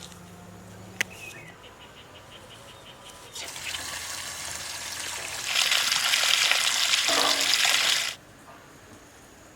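Water pouring in a steady stream: it starts faintly about three and a half seconds in, gets much louder about two seconds later, and cuts off suddenly near the end.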